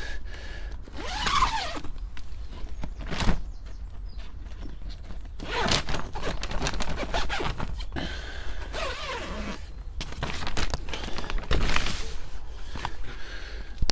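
Plant pots and seedling trays being handled: a run of scrapes, rustles and short squeaks, with a sharp knock about three seconds in.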